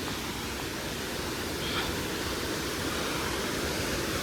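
Steady rushing of flowing water from a rainforest stream, an even hiss with no distinct events.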